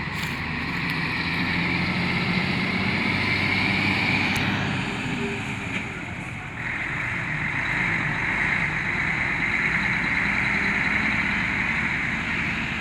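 Heavy diesel engine running steadily. It dips briefly a little past halfway, then picks up again.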